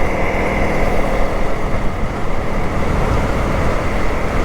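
Dual-sport motorcycle engine running steadily under way, mixed with wind and road noise.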